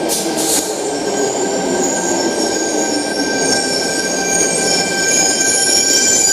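Sydney Trains Tangara electric train running into the platform, its wheels squealing in several high tones over the steady rumble of the cars.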